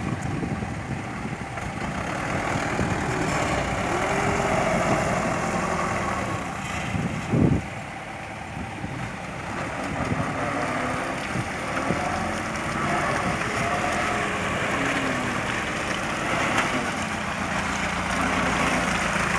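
Truck engine running and idling steadily. There is one brief, loud thump about seven seconds in.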